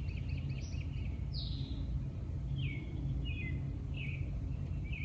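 Birds chirping: a quick high trill, then a string of short falling chirps about every second, over a steady low rumble of outdoor background noise.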